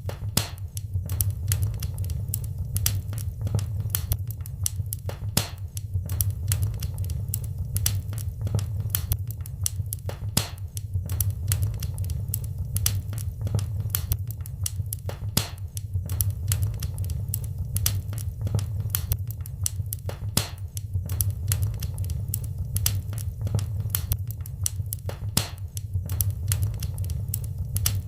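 Wood fire crackling in a fireplace: irregular sharp pops and snaps, several a second and some louder than others, over a steady low rumble.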